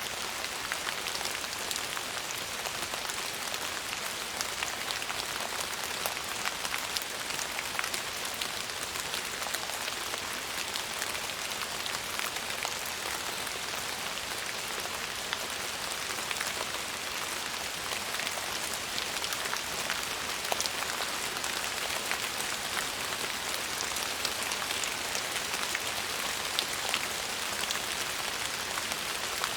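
Steady rainfall: an even hiss with many fine drops pattering on a surface.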